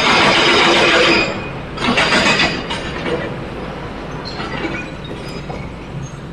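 Heavy machinery working, most likely an excavator loading material into a dump truck: a loud rush of rattling noise for about a second, a second shorter burst about two seconds in, then a lower, steadier machine rumble.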